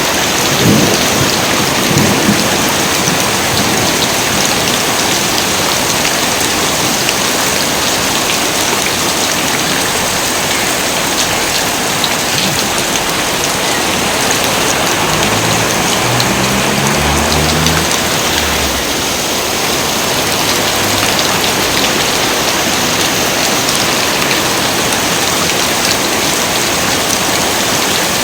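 Heavy rain pouring steadily, with low thunder rumbling in the first couple of seconds.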